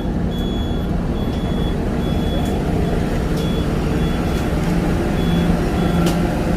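Vehicle engine running steadily under a repeating high-pitched beep, about one beep a second, like a reversing alarm.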